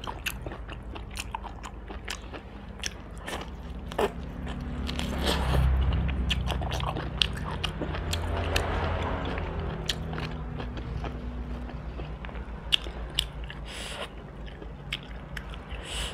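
Close-miked eating of roast duck: repeated crisp bites and chewing, with many sharp crunchy clicks throughout. A low hum swells in the background about five to ten seconds in.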